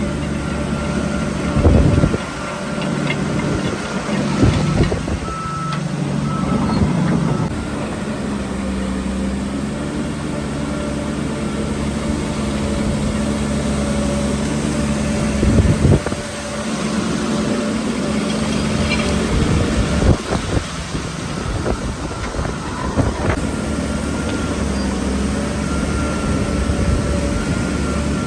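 Heavy diesel earthmoving machinery running steadily, with several sharp clanks and knocks spread through it and a few short high beeps early on.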